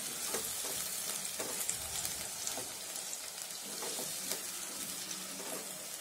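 Ground green masala paste sizzling in oil in a non-stick kadhai on a low flame while a wooden spoon stirs it without pause, with soft irregular scrapes of the spoon through the paste and against the pan. The raw masala is being fried until its rawness cooks out.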